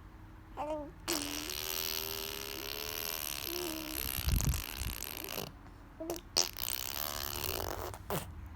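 Wet raspberries blown through the lips, spraying spit: a sputtering buzz with a wavering pitch, one long one of about three seconds, then shorter sputters near the end.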